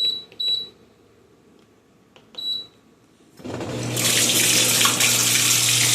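A countertop dishwasher's control panel beeps three times. About three and a half seconds in, its pump starts with a steady hum and water rushes through it as the standing water is drained out.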